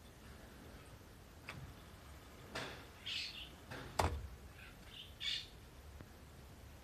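A few short, high bird chirps or squawks in the second half, and a sharp click about four seconds in.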